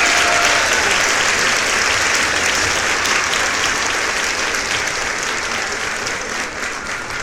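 Large crowd applauding, a dense, steady clapping that fades out gradually.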